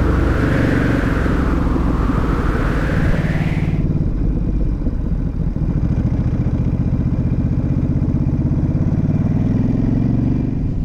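Ducati SuperSport 950 S's L-twin engine running under way, its pitch rising slightly near the end. For the first four seconds a rushing noise sweeps up and down over it, then cuts off abruptly.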